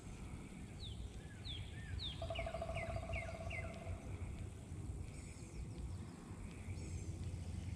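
Wild birds calling: a run of about seven quick down-slurred whistled notes about a second in, with a low buzzing trill beneath them for about two seconds, and a few faint high chirps later, over a low steady background rumble.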